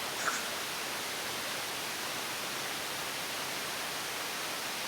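Steady, even background hiss, with one light click about a third of a second in.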